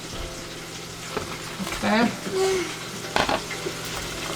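Chicken drummets deep-frying in hot cooking oil, sizzling steadily, with a brief knock a little after three seconds.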